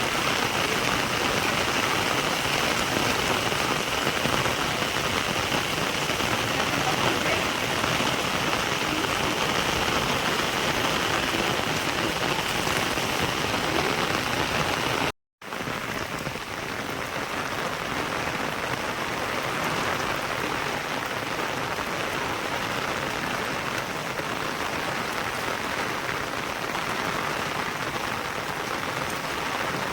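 Steady rain falling, an even hiss of drops on surfaces. About halfway through the sound drops out for a moment, then the rain continues a little quieter.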